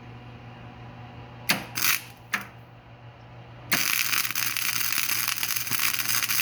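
Flux-core MIG welder: a low hum, then three short arc bursts about a second and a half to two and a half seconds in, then from nearly four seconds in a steady crackling arc as a weld bead is run.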